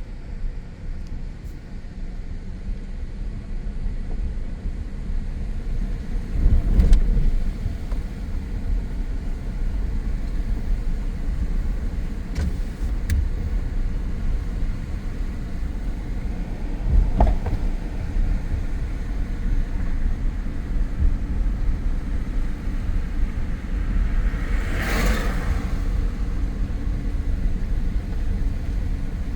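A car driving, with a steady low rumble of road and engine noise. A few knocks come through, around 7, 12 and 17 seconds in, and a whooshing swell rises and passes near the end.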